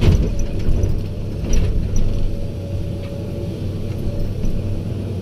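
Heavy diesel engine of earthmoving equipment running steadily, with a few sharp knocks in the first two seconds.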